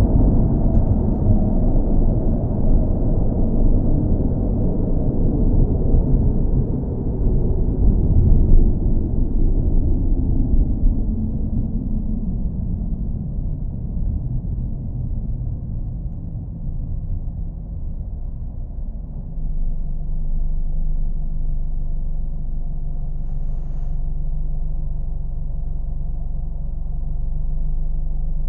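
Low, steady car engine rumble, heavy in the bass. The rumble eases off through the middle, and about two-thirds in it gives way to a steadier, even engine hum.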